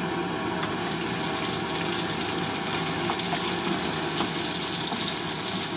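Chopped onions tipped into hot oil with browning garlic in a wok, setting off a loud, steady sizzle that starts suddenly about a second in, with a few light taps of a wooden spatula.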